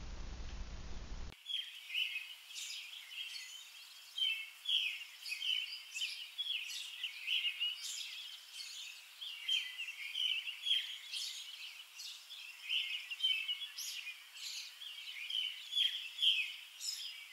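Faint room hiss that cuts off suddenly about a second in, followed by songbirds chirping and singing outdoors, with many short calls overlapping throughout.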